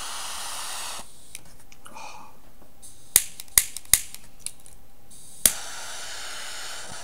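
Butane torch lighter clicked several times, its igniter snapping sharply, with a second or so of hissing gas after the last click; it is failing to light properly, which the user puts down to an overfilled lighter.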